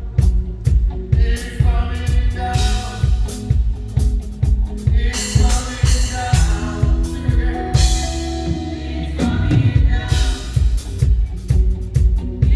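Live praise band music: singing over a drum kit, with a steady kick drum beat about twice a second.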